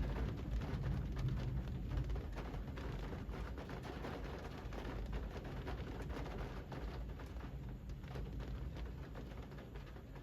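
Rain falling on a street, a steady hiss with a dense patter of individual drops. A low rumble underneath dies away over the first few seconds, and the whole sound grows gradually quieter.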